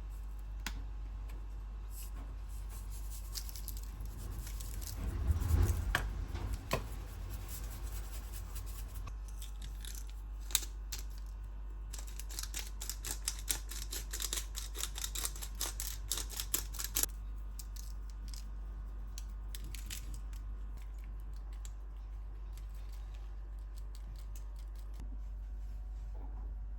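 Light clicks, taps and rustling from small handling work, with a louder knock about five seconds in and a dense run of quick clicks between about twelve and seventeen seconds in, over a steady low hum.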